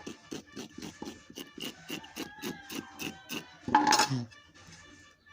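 A knife scraping back and forth over the scalded skin of a plucked duck, quick even strokes about five a second, to work out the dark pin-feather spots under the skin. A single louder short sound comes about four seconds in.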